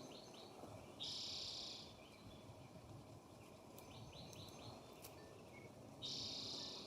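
A songbird singing the same phrase twice: three or four quick high notes, then a short buzzy trill.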